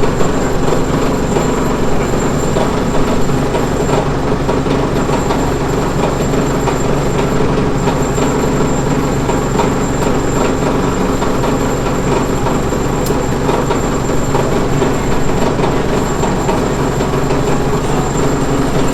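A motor running steadily with a low hum and a thin high whine above it, the level unchanging throughout.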